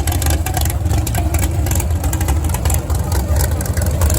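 Steady low rumble of drag-racing car engines idling, with a rough crackle over it.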